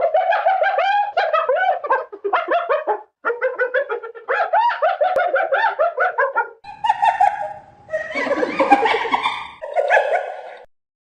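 Animal calls: a rapid string of short, pitched chattering calls. About six and a half seconds in, they give way to rougher, noisier calls that stop shortly before the end.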